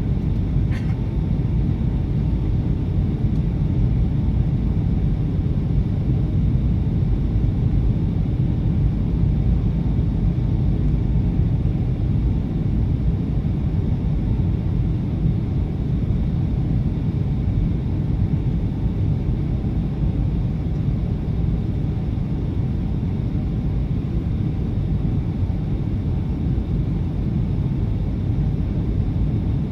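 Steady low rumble of engines and airflow heard inside the passenger cabin of a Boeing 757 airliner on final approach.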